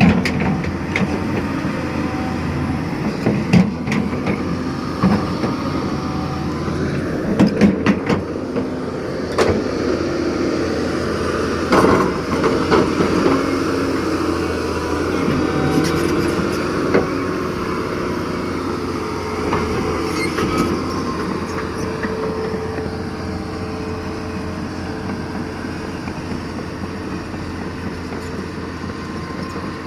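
Doosan DX225LCA hydraulic excavator running steadily as it works, with scattered metallic clanks and knocks, several close together in the first twelve seconds.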